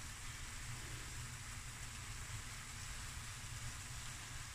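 Peppers and zucchini noodles frying gently in a stainless steel pan, a soft, steady sizzling hiss with no stirring strokes.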